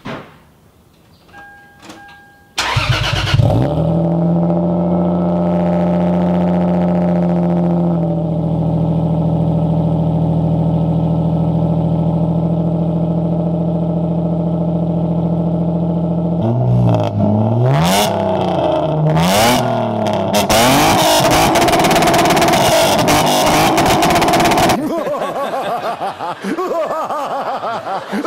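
Lexus IS300's inline-six 2JZ-GE engine, fitted with headers, a Y-pipe, a straight mid-pipe with a small resonator and a cannon axle-back, cranks and starts, then idles steadily with a raspy exhaust note. Later come several quick revs rising and falling, then a few seconds held at high revs before the sound drops back.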